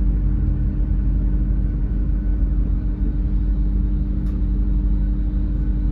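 Train diesel engine idling: a steady low rumble with a constant hum.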